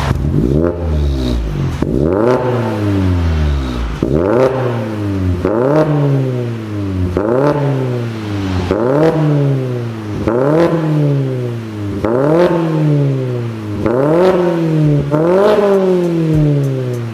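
Mazda 3's SKYACTIV-G 2.0 inline-four breathing through an aftermarket header manifold and muffler kit, revved in quick blips: about ten revs, each rising sharply in pitch and falling back, one every second and a half or so.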